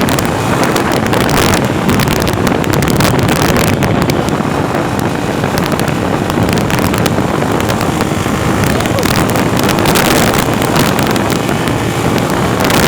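Strong wind buffeting the microphone over the steady running noise of a moving vehicle, loud and unbroken.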